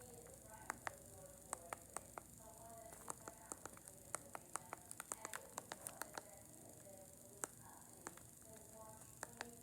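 Quiet, irregular light clicks and taps, several a second, over faint distant voices.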